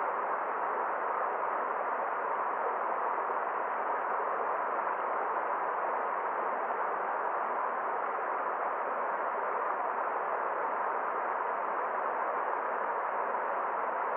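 Forest stream water running, a steady, even rush with no high hiss and no change in level.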